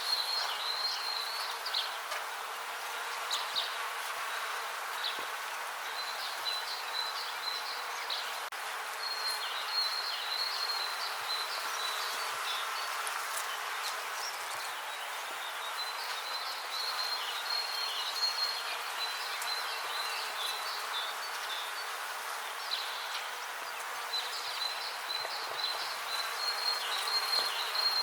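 Bees buzzing in a steady dense hum, with a high chirping trill coming in repeated bouts over it.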